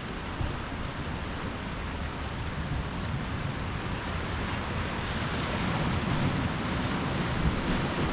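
Ocean surf: a steady wash of breaking waves that slowly swells louder through the second half.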